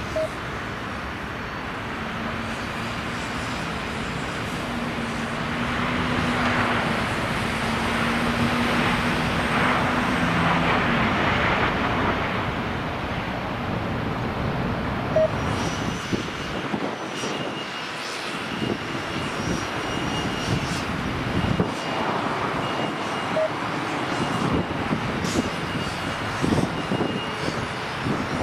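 Airliner engines running, the noise swelling and easing back, with a steady low tone in the first half and a thin high whine in the second half.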